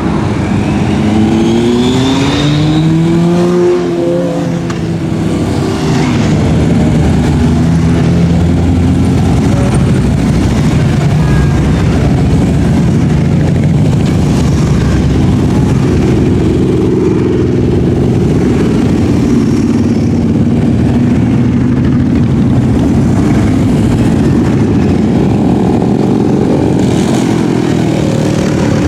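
Motorcycles riding past in a long stream, their engines running loudly the whole time. In the first few seconds one engine revs up and falls away as it passes.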